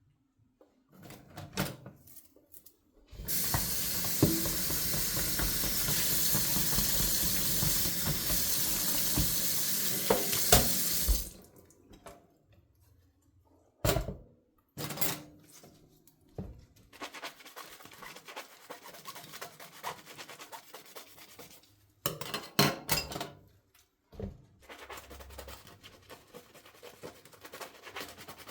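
Kitchen sink tap running for about eight seconds, with dishes knocking under the stream, then shut off. After a sharp knock, a sponge scrubs dishes, with a few clinks of dishware.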